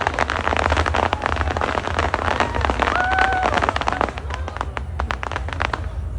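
Fireworks crackling: a dense, rapid patter of small pops that thins out after about four seconds, over a steady low rumble. A brief high steady tone sounds about three seconds in.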